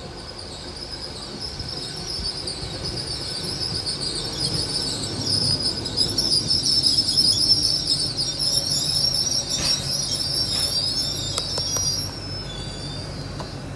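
LNER Class 800 Azuma bi-mode train running into the platform with a low rumble and a steady high-pitched squeal as it brakes, loudest midway. The squeal dies away about twelve seconds in as the train comes to a stop.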